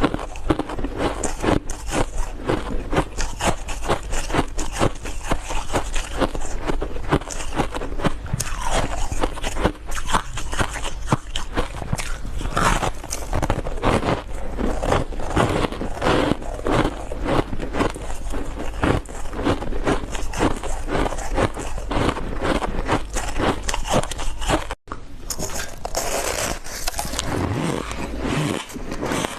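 Close-miked biting and chewing of refrozen powdery ice in big bites: a dense, continuous run of soft crunches. The crunching breaks off for an instant about 25 seconds in, then goes on brighter.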